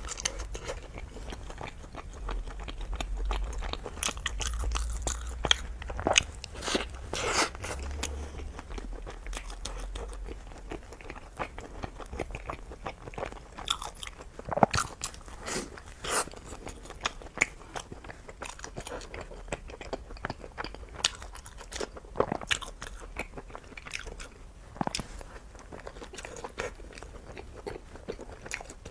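Close-miked eating of Chinese food: crunchy bites and chewing, with many sharp crisp cracks scattered throughout, thickest in the first half. A low rumble sits under the bites from about three to ten seconds in.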